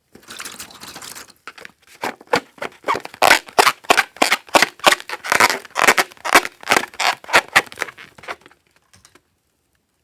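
Slime being worked by hand: about a second of hiss, then a quick run of sticky clicks and pops, roughly three a second, that stop near the end.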